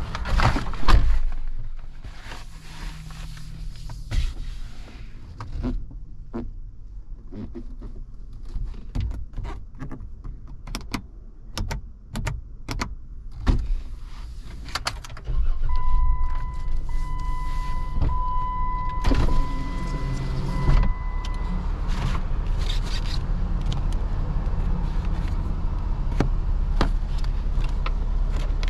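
Scattered clicks and knocks of interior fittings being handled in a Jeep Wrangler's cabin. About halfway through, the engine starts and settles into a steady idle, while a warning chime beeps repeatedly for about five seconds.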